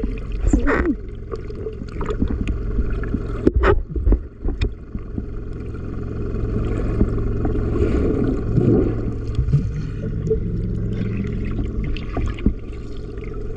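Small fishing boat out on the water: a steady low drone with water and wind noise, and a few sharp knocks about four seconds in.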